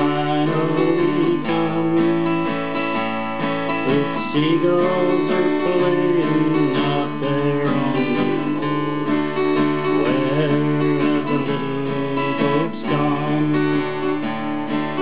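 Instrumental introduction of a folk song: acoustic guitar strumming chords, with a gliding melody line played over them.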